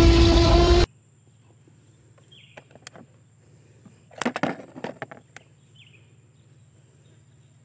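A loud dinosaur roar over music cuts off suddenly about a second in. Then a quiet outdoor background with a few short bird chirps and a brief clatter of hard plastic toys being handled near the middle.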